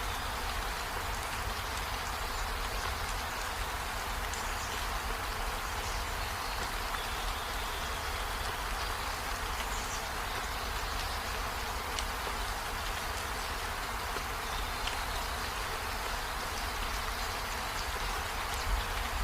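Steady rain falling on trees and a window: an even hiss with a low rumble underneath.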